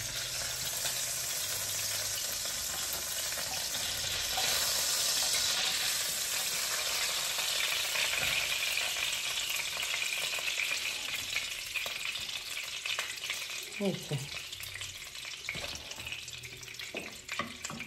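Belyashi, meat-filled dough pies, frying in hot oil in a pan: a steady sizzle that eases off a little over the last few seconds.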